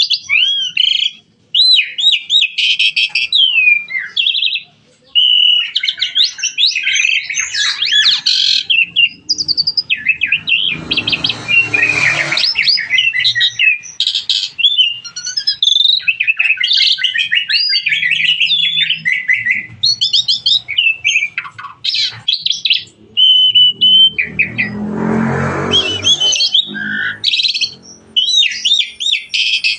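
Starling (jalak) singing a long, nearly unbroken song of varied whistles, slurred glides and rapid chatter. The song is broken twice by harsher, rasping bursts.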